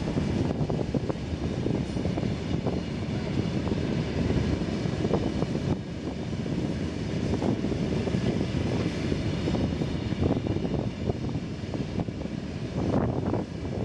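Mauritanian iron-ore train's loaded ore wagons rolling past: a steady heavy rumble with many quick, irregular clanks and rattles from the wheels and wagons.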